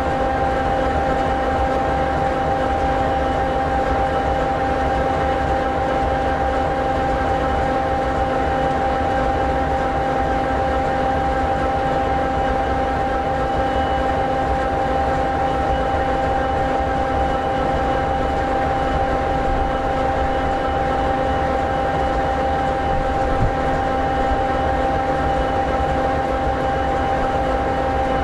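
EMD 16-710G3B two-stroke diesel engine of an SD60E locomotive idling steadily: an even low rumble with a constant hum of several steady tones.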